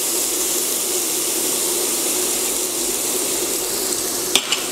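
Onion and ginger paste sizzling steadily in hot oil in a frying pan as more oil is poured in, with a short clink near the end.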